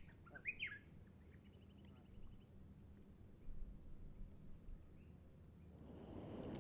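Faint birdsong: a few short falling chirps, then a quick even trill of high notes, with scattered thin chirps after.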